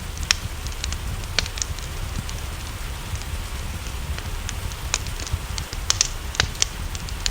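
Wood fire in a fireplace crackling, with irregular sharp pops of uneven loudness over a steady low rumble, mixed with steady rain.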